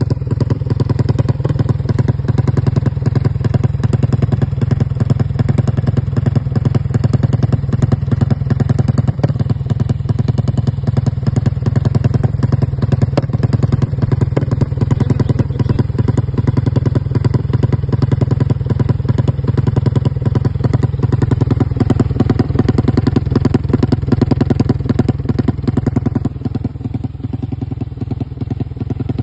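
300cc Yamaha Aerox scooter's single-cylinder engine running at a steady idle through an SBR aftermarket exhaust, with a deep, evenly pulsing exhaust note. It gets slightly quieter near the end.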